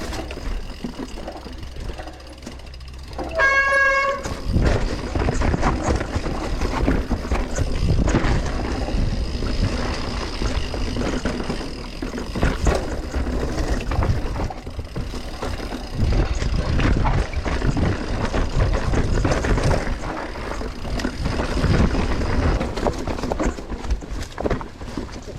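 Mountain bike descending a rough trail: tyres on dirt and roots, the bike rattling over bumps and wind on the helmet-camera microphone, a steady rumble with frequent knocks. About three seconds in, a brief high squeal sounds before the rumble picks up.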